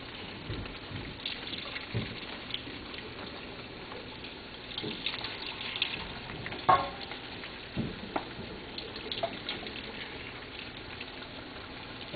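Chicken thigh pieces deep-frying in hot oil in a wok: a steady sizzle with scattered crackles and spatters as more pieces go in. A single sharp clink a little past the middle is the loudest sound.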